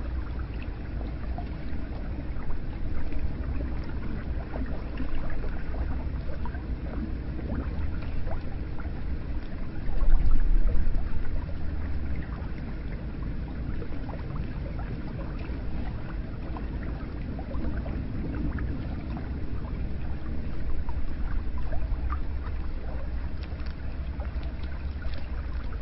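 Hot spring water running and splashing steadily, with many small drips and trickles, and a louder low rumble about ten seconds in.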